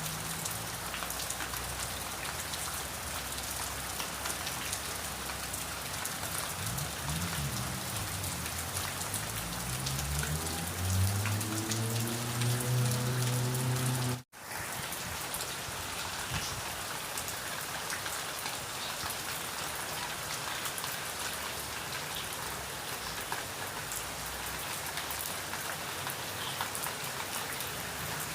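Steady rain falling. Partway through, a low droning tone rises slowly in pitch under the rain for several seconds, then the sound cuts out abruptly for an instant before the rain resumes.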